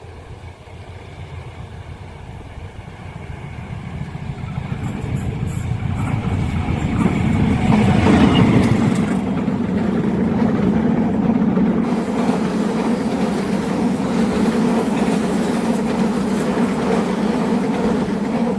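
Train approaching and passing: the sound builds steadily until the locomotive goes by about 8 seconds in, then the carriages roll past with a steady, loud rumble of wheels on rails.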